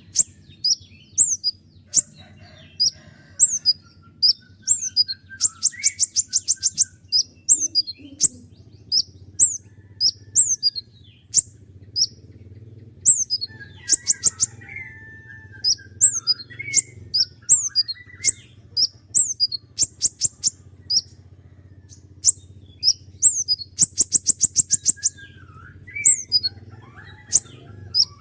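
A konin, the songbird also called kolibri ninja (purple-naped sunbird), singing a long run of short, sharp, high notes that each drop in pitch. The notes are broken three times by fast rattling trills. A faint steady low hum lies beneath.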